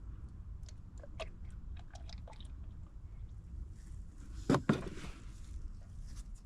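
Motor oil being poured from a plastic quart bottle into the engine's oil filler: faint, irregular crackles and clicks of the handled bottle, with one short, louder knock about four and a half seconds in.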